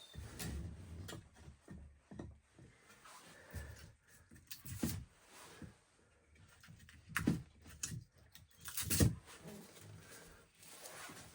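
Irregular knocks and thumps with rustling handling noise between them; the loudest knocks come about five, seven and nine seconds in.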